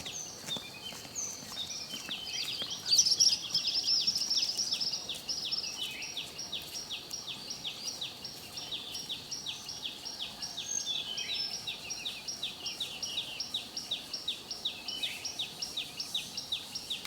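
A bird calling in a long, even series of short downward chirps, about three a second, loudest a few seconds in, over a steady high hiss of forest background.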